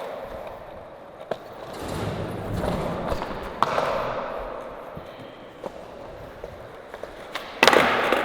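Skateboard wheels rolling on flat ground, with a few sharp clicks, then a loud clatter near the end as the board is popped for a flip trick and slaps the ground.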